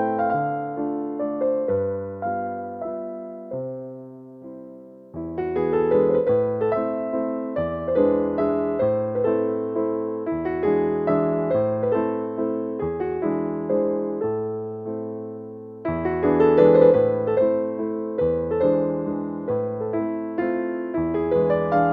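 Solo piano music, gentle and slow, in a soft electric-piano tone; it thins out around four seconds in, then swells louder around sixteen seconds in.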